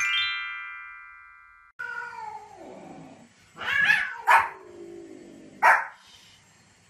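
A bright rising chime that fades and cuts off after nearly two seconds, then a cat yowling in long falling cries while a small white spitz-type dog barks sharply three times.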